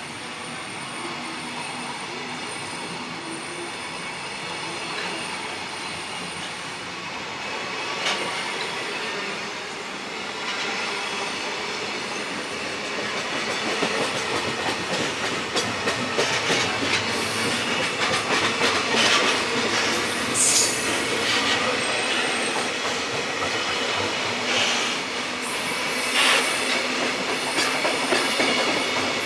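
Long JR Freight container train rolling past: a continuous rumble of wagons with dense wheel clicks over the rail joints and brief high wheel squeals, growing louder about halfway through.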